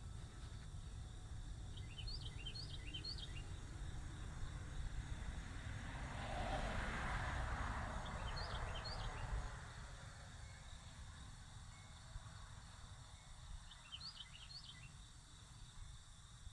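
A small bird singing a short burst of quick chirps three times, about six seconds apart, over a steady low outdoor rumble. A rushing noise swells and fades away in the middle.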